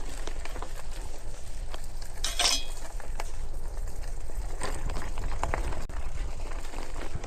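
Mountain bike rattling over a rough trail: irregular metallic clinks and knocks from the bike and the gear pack over a steady low rumble, with a brief sharp scraping hiss about two and a half seconds in.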